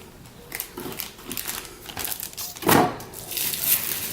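Plastic parts bags from a model kit crinkling and rustling as they are handled, with a louder bump about two and a half seconds in.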